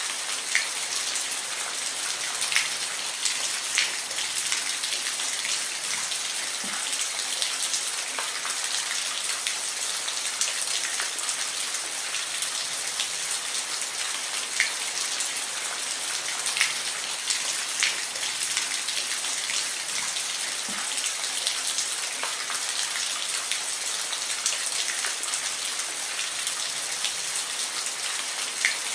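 Steady rain with a continuous hiss and scattered individual drops ticking sharply on a surface.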